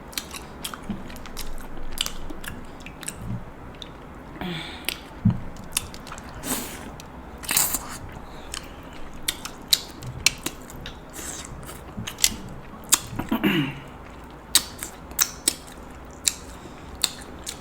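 Close-up eating of king crab: chewing with wet mouth clicks and smacks, and many short sharp clicks scattered throughout.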